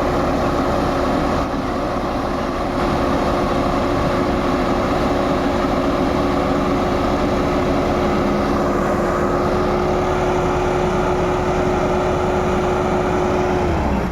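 Heavy farm diesel machinery running hard and steadily, with a steady high whine over the engine noise. Near the end the whine falls in pitch and dies away as the machine throttles back.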